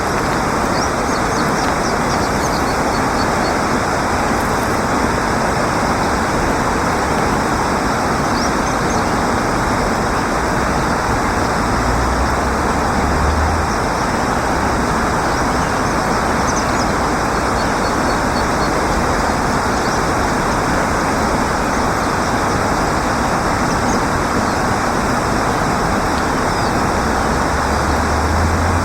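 Steady, loud rushing outdoor noise with no clear rhythm, and a few faint short high chirps now and then.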